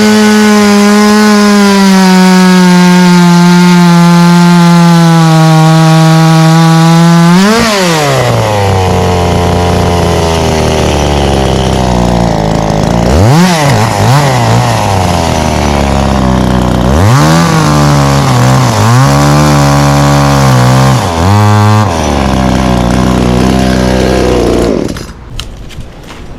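Ported Echo CS-355T two-stroke top-handle chainsaw with a quarter-pitch chain, running at full throttle in a cut, its pitch sagging slowly under load. About a quarter of the way through the revs drop to a lower, uneven running, rising and falling several times, and the engine sound falls away sharply near the end.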